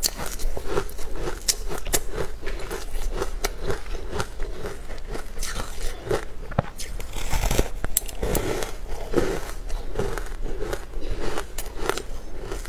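Close-miked chewing and mouth sounds of someone eating a soft, spongy green cake: wet, sticky clicks and smacks in a steady chewing rhythm.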